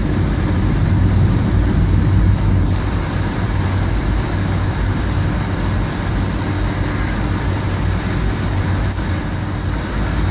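Steady road noise heard from inside a moving car on a rain-wet highway: tyre hiss and wind over a low engine hum, even throughout.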